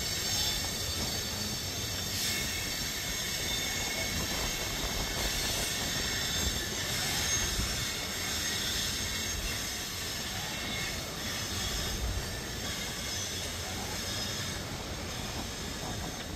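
Freight train of hopper cars rolling past, its steel wheels giving a steady high-pitched squeal of several tones over a continuous low rumble.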